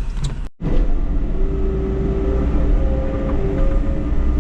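Skid steer loader's diesel engine running hard, a steady heavy rumble with whining tones over it, starting after a brief gap about half a second in.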